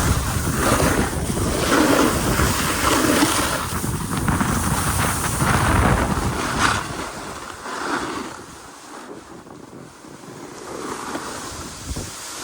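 Wind rushing over the phone's microphone during a snowboard run down the slope, loud at first and easing off about eight seconds in.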